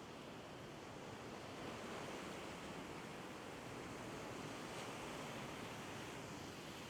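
Ocean surf washing on the shore: a faint, even rushing that swells a little about two seconds in.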